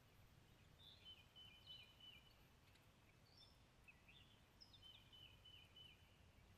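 A songbird singing faintly: two short phrases of quick high notes, the second about three seconds after the first, over a low steady background rumble.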